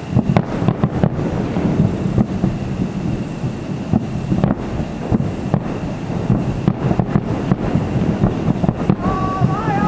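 Distant fireworks going off in irregular sharp pops over a steady low rumble, faint because the display is far away.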